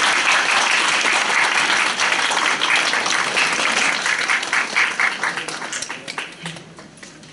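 Audience applauding at the end of a song, dense at first and thinning out to scattered claps in the last couple of seconds.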